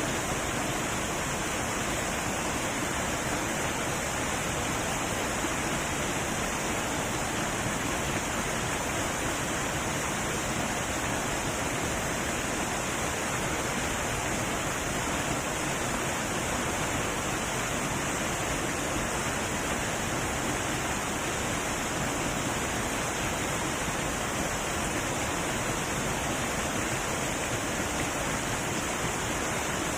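Heavy waterfall: a steady, even rush of falling water with no breaks or changes.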